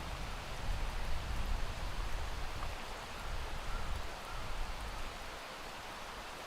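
Steady rain falling, an even hiss of many drops, with a low rumble underneath that eases off about five seconds in.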